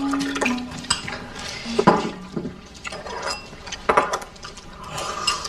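Chopsticks and tableware clicking and knocking during a meal, a handful of separate sharp clicks, the loudest about two and four seconds in.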